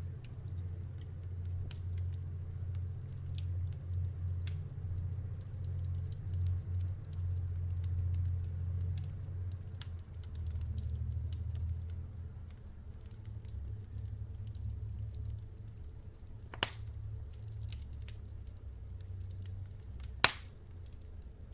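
Campfire crackling: many small ticks and snaps over a low steady rumble, with two sharp, louder pops in the second half.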